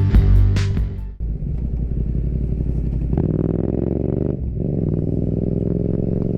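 Music ends about a second in. A Yamaha MT-07's parallel-twin engine, through an Akrapovič Racing Line exhaust, then runs and accelerates with a rising note. The note dips briefly about four seconds in, as at a gear change, then climbs again.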